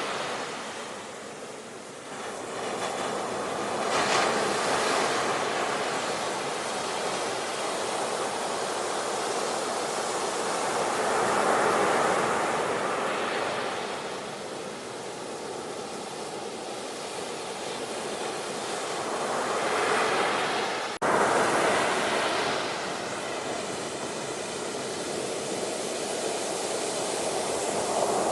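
Ocean surf: waves breaking and washing in, swelling and easing in slow surges about every eight seconds. One sudden, brief dropout about three quarters of the way through.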